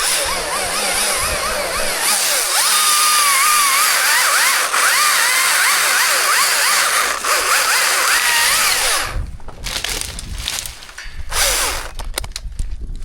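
Chainsaw cutting wood, its engine pitch rising and falling under load. About nine seconds in the saw eases off, leaving scattered clicks and knocks.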